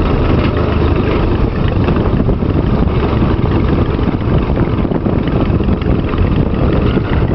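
Tractor engine running steadily under way, with a dense low rumble and continuous fine rattling.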